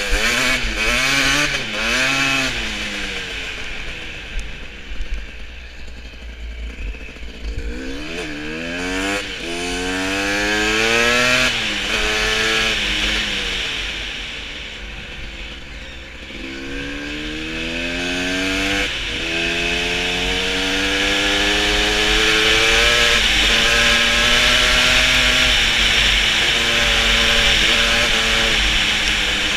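Motorcycle engine accelerating hard through the gears: its pitch climbs and drops back at each shift several times, then holds high and fairly steady. A rushing noise grows as the speed builds.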